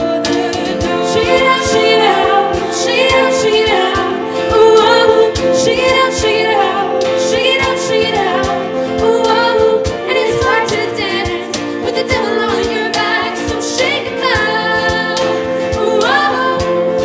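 Small vocal ensemble singing over instrumental accompaniment with a steady beat, the voices holding chords under a moving melody line.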